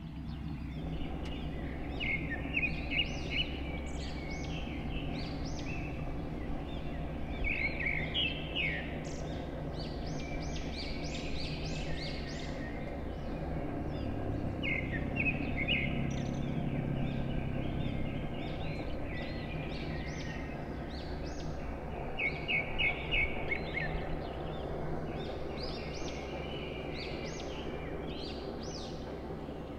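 Birds calling in quick series of repeated chirping notes over a steady low background noise.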